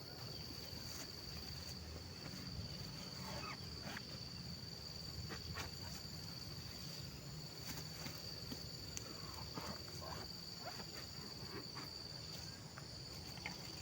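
Insects calling in one steady, high-pitched drone, with scattered light clicks and rustles of handling over it.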